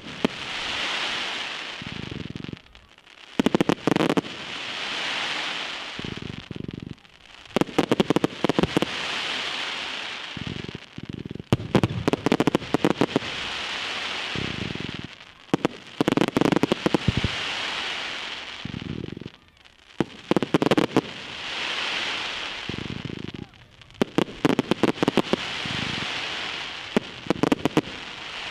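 Fireworks display: about every four seconds a cluster of sharp bangs goes off, followed by a hissing crackle that swells and fades.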